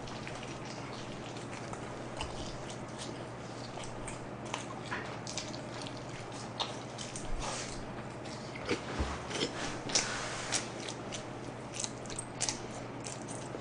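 Close-up biting and chewing of a slice of jalapeño fries pizza: a steady run of wet mouth clicks and smacks that grows busier and louder about eight to eleven seconds in.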